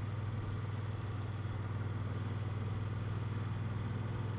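BMW motorcycle engine running steadily at a constant low pitch while cruising in gear at about 40 km/h.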